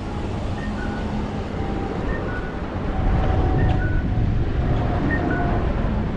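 Wind and road rumble on an action camera carried on a moving bicycle, getting a little louder about three seconds in. Under it runs faint music: a short high two-note falling figure repeating about every second and a half, over lower notes.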